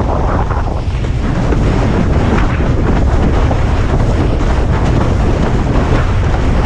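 Strong wind buffeting an action camera's microphone in a steady low rumble, over the rush and splash of water beneath a windsurf board.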